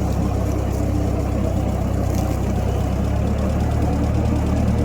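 1956 Massey Ferguson F40 tractor's four-cylinder engine running steadily with a low putt-putt chuff.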